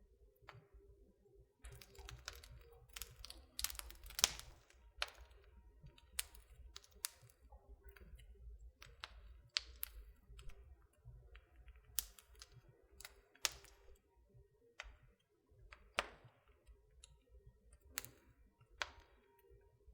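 Wood fire in a fireplace crackling: irregular sharp pops, thick for a few seconds near the start and then sparser, over a faint low rumble.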